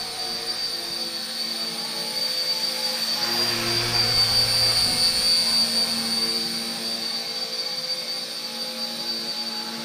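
Small electric RC Era C032 UH-1 Huey model helicopter in flight: a steady high motor whine over the buzz of its spinning rotor, getting louder for a few seconds in the middle as it comes closer.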